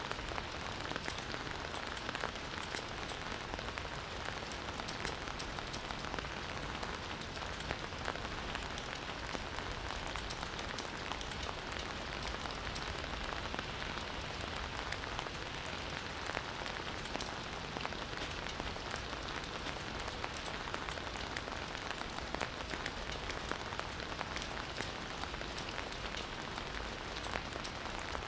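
Campfire burning, with a dense, steady crackle of many small pops and snaps over a soft hiss.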